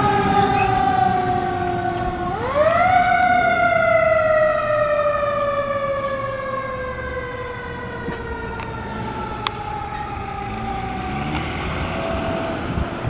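Fire engine siren winding down, then wound up again quickly about two seconds in and falling slowly in pitch for the rest of the stretch, fading near the end.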